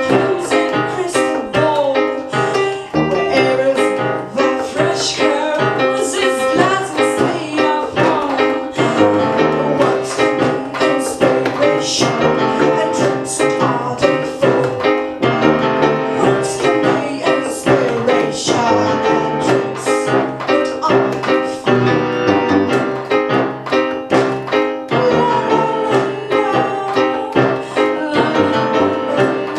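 A live band playing: piano or keyboard with a singing voice over a steady beat of sharp percussive hits.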